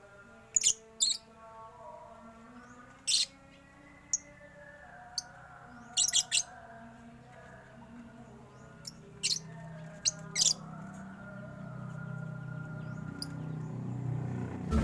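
Caged birds in a mixed aviary giving short, sharp, high-pitched chirps, singly and in quick pairs, about a dozen over the stretch. A low pitched drone underneath grows louder near the end.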